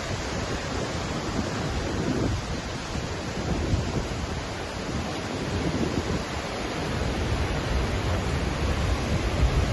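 Waterfall: a steady rush of falling water, with uneven low gusts of wind on the microphone.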